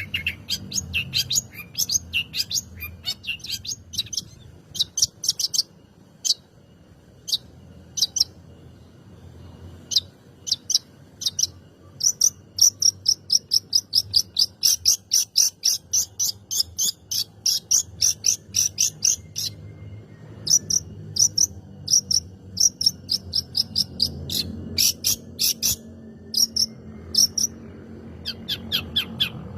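Long-tailed shrike singing: short, sharp, high chirps, scattered at first, then a fast unbroken run of about four notes a second from about twelve to nineteen seconds in, then scattered again.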